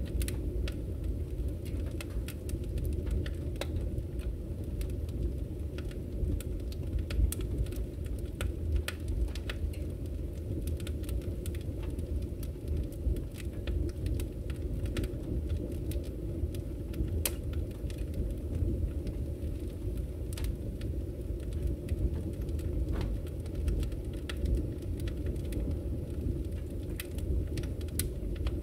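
Fire in a fireplace crackling, with frequent sharp, irregular pops and snaps over a steady low rumble of burning flames.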